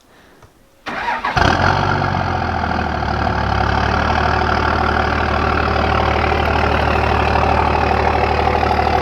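Dodge Ram pickup's diesel engine cranking briefly about a second in, catching, and settling into a steady idle.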